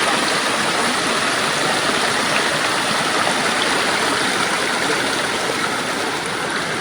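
Rushing water: a steady, even rush of flowing water without a break.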